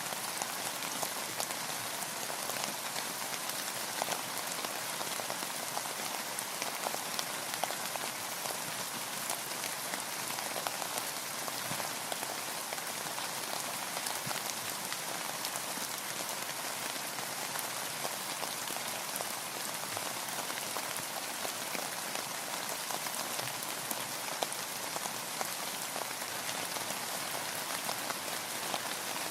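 Steady rain falling on and around a boat on the water: a dense, even patter of drops with many fine ticks.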